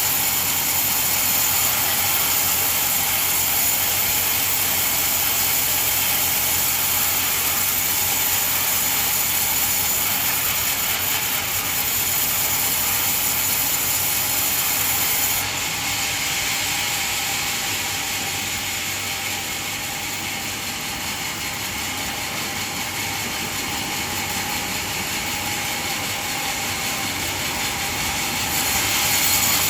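Band sawmill running steadily. Its level drops a little about fifteen seconds in and rises again near the end.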